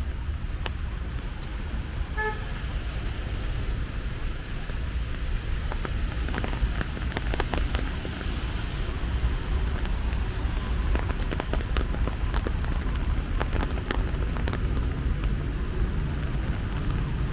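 Rainy street ambience: a steady low rumble of traffic and wind on the microphone, with rain falling and scattered sharp drips and ticks through the middle. A short car-horn toot sounds about two seconds in.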